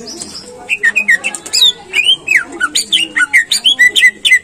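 Cucak ijo (green leafbird) singing: a high fast trill at the start, then from about a second in a loud quick run of varied whistled notes that slide up and down.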